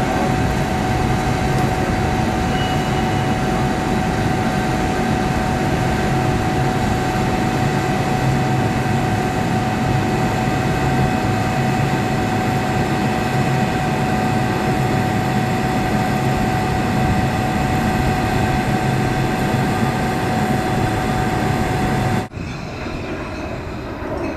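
Train running steadily, a loud drone with a constant whine on top. The sound cuts off abruptly near the end, giving way to quieter train noise.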